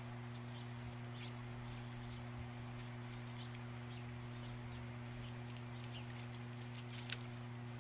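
Short, high bird chirps scattered over a steady electrical hum from the nest-camera microphone, with one sharper chirp near the end.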